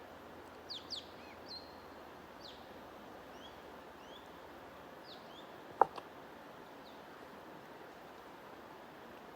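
Small birds giving short, high chirps that sweep downward, several in the first two seconds and a few more scattered later, over a steady rush of flowing water. A single sharp click a little before the six-second mark is the loudest sound.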